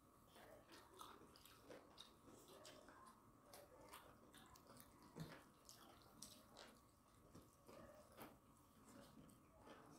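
Faint chewing and wet mouth sounds of people eating rice and chicken curry with their hands, with scattered soft clicks throughout.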